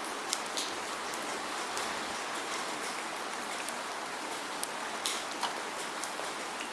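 Steady rainfall: an even hiss with many separate drops ticking sharply on a nearby surface, and no thunder.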